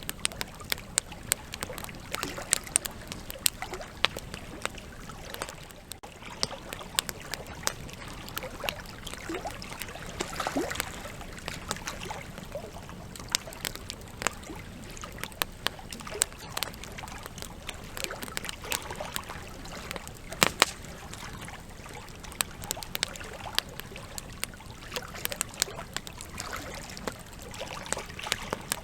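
Wood campfire crackling: frequent sharp pops and snaps scattered irregularly over the steady soft hiss of the burning logs, with one louder pop about two-thirds of the way through.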